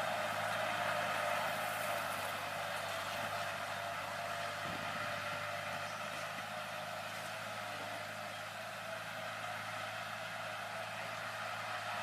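Kubota L4708 tractor's diesel engine running steadily, slowly growing fainter.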